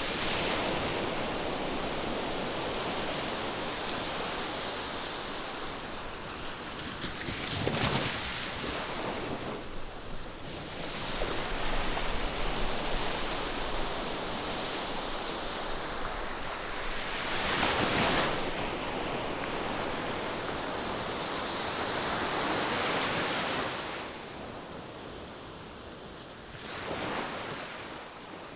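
Ocean surf on a beach: waves breaking and washing in one after another, the rush of water swelling and fading every few seconds.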